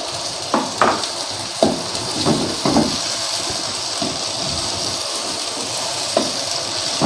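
Tomato and onion pieces sizzling steadily in hot oil in a non-stick wok as a spatula stirs them, with a few short scrapes of the spatula on the pan in the first three seconds and once more near the end.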